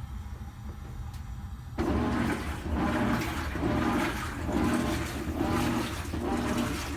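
GE GTW465 top-load washing machine: a low hum, then about two seconds in water suddenly rushes into the tub. The rush carries on with a rhythmic pulsing whir from the machine as the tub fills around a small load.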